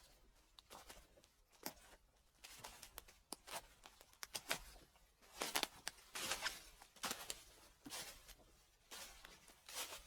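Footsteps crunching and rustling through dry fallen leaves, in an uneven series of crackling steps that grow busier and louder midway.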